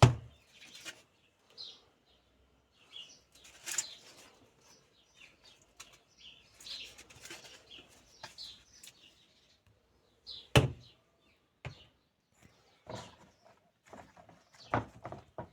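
Scattered knocks and clicks from hand work on a washing machine's parts, with three sharper knocks: at the start, about two-thirds in, and near the end. Birds chirp in the background.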